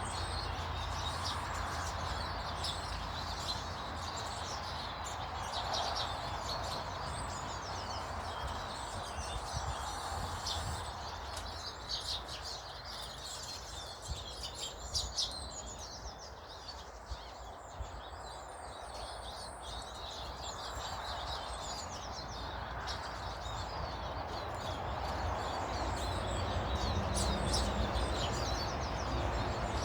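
Small garden birds chirping, many short quick calls overlapping, busiest midway. A steady low background rumble runs under them.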